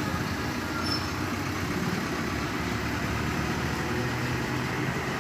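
Steady low rumble of an engine or motor running at idle, with a slightly stronger low hum joining about four seconds in.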